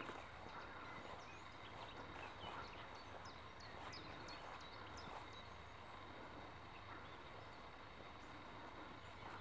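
Faint open-air background with scattered short, falling high chirps of small birds, most of them in the first half.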